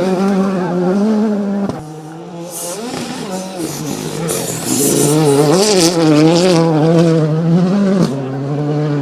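Rally car engine running hard at high revs, its pitch wavering as the throttle works, with a hiss of tyres on the surface. The sound breaks off abruptly twice as the shot changes.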